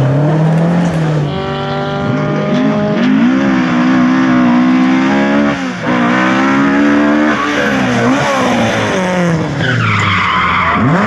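Rally car engine at full throttle, its pitch climbing and dropping again and again as it revs through the gears and lifts off. Tyres squeal briefly near the end.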